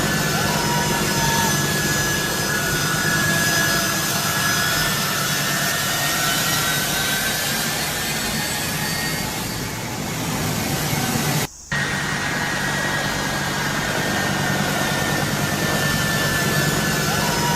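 Jet engines of a US military transport plane running, a steady noise with a high whine over a low hum, cutting out briefly about eleven and a half seconds in.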